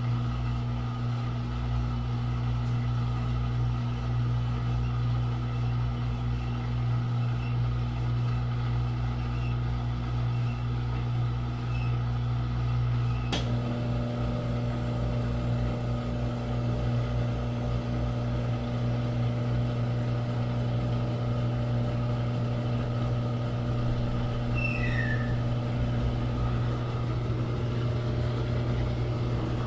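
Consul Super Maré 10 kg washing machine in its spin cycle: a steady motor hum. A single click comes near the middle, after which the hum's tone changes slightly.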